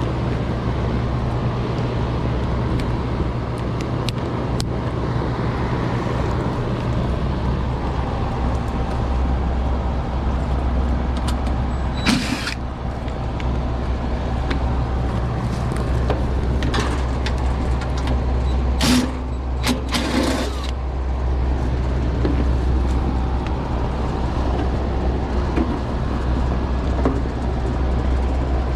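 Old Lennox air-conditioner condenser with only its fan motor running, a steady low hum and drone, while the compressor stays off; the technician takes this as the tell-tale sign of a bad capacitor. A few short clatters about 12 seconds in and again about 19 to 20 seconds in.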